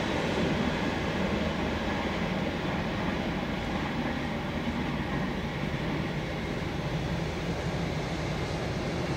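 Long passenger train of intercity coaches rolling along the line, a steady rumble of wheels on rails that fades a little as it draws away.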